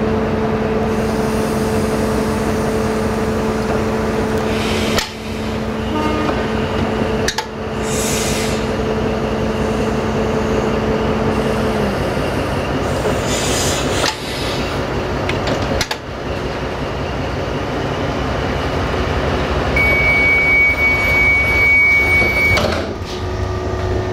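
Diesel train engines running at a station: a steady rumble with a low hum that cuts off about halfway, and a few knocks. Near the end a high steady beep sounds for about three seconds.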